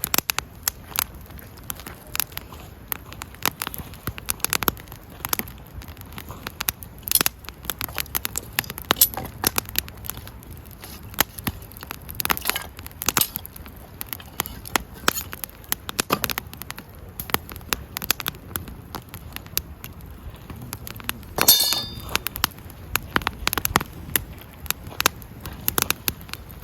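Wood campfire crackling, with dense irregular pops and snaps and one longer, louder burst about three-quarters of the way through.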